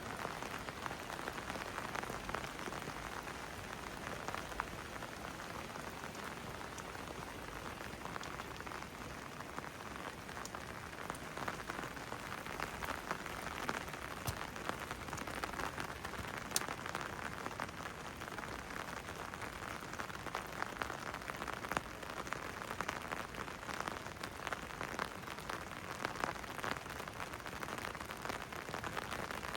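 Steady rain falling, with many close drops ticking sharply over an even hiss.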